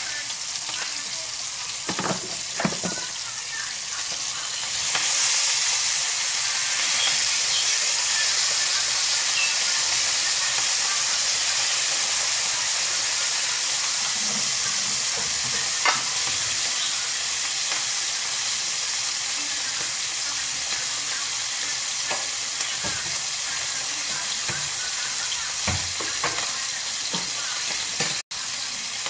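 Food sizzling and frying in a pan on a gas stove while being stirred, with occasional knocks of the utensil against the pan. The sizzle gets louder about five seconds in.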